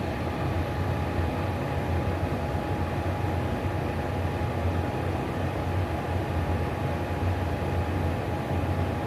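Atwood RV propane furnace running: its blower fan and propane burner make a steady hum with a thin steady whine above it. The furnace is lit and putting out heat, its fan running smoothly.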